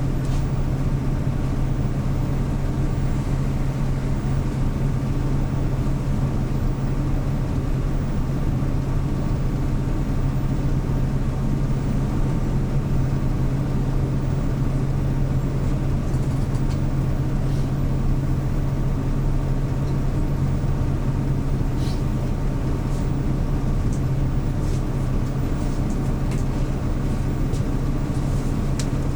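CNG engine of a 2013 Hyundai New Super Aero City city bus running at a steady, unchanging speed, a constant low hum heard from on board. A few faint clicks come in during the second half.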